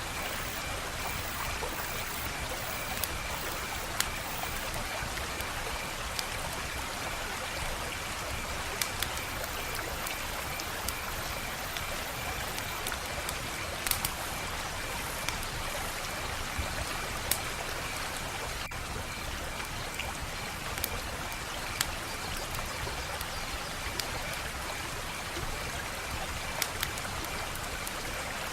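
Wood fire crackling: a steady hiss with sharp pops and snaps scattered at irregular intervals, about a dozen louder ones standing out.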